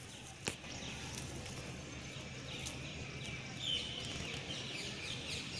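Faint birds chirping, a run of short quick notes from about two and a half to four and a half seconds in, over a quiet outdoor hush. A single click sounds about half a second in.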